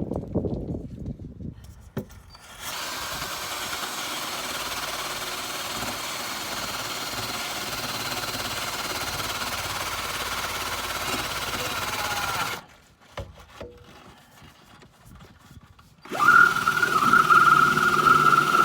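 Power drill scrubbing surface rust off a car's underside. It runs steadily for about ten seconds and stops, then starts again near the end, louder and with a steady high whine.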